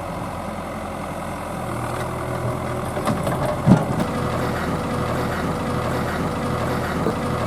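A heavy diesel engine running steadily at idle, with one brief louder sound a little past the middle.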